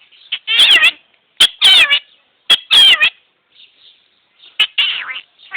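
A parrot giving four short calls with a wavering pitch, roughly a second apart, with a longer pause before the last one.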